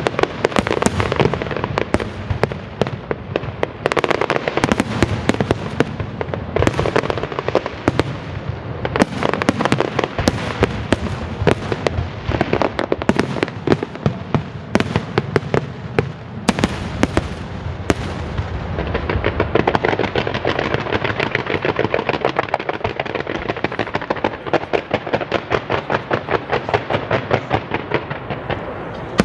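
Aerial fireworks going off nonstop, a loud mix of bangs and crackling. About two-thirds of the way through, the sound turns into a dense, rapid crackle.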